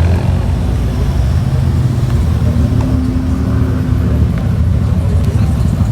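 Car engine running close by with a low, steady rumble; a held hum rises out of it for a second or so around the middle.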